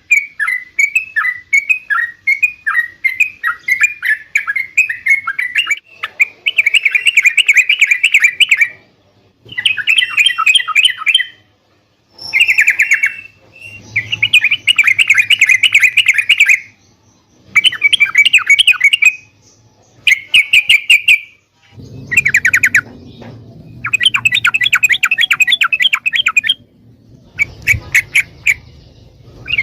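Yellow-vented bulbul (trucukan) singing: a run of quick repeated chirps, then bursts of fast, bubbly song two to three seconds long with short pauses between them.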